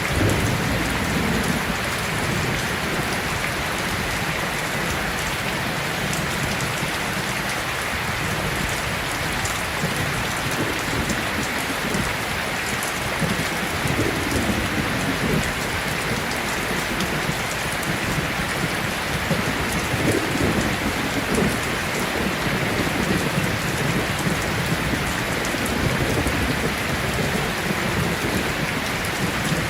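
Heavy rain pouring steadily, with low rolls of distant thunder swelling and fading, most clearly near the start and again about halfway through.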